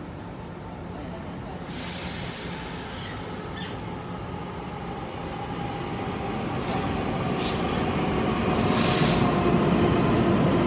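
Electric commuter train pulling out of the platform. Its motors whine, rising slowly in pitch and getting louder as it gathers speed, over a steady rumble. Short hisses of air come about two seconds in and twice more near the end.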